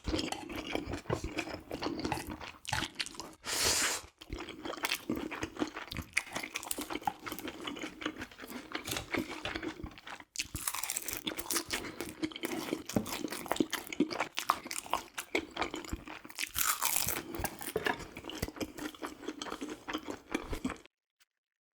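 Close-miked eating: steady chewing with crunching and wet mouth sounds, cutting off suddenly near the end.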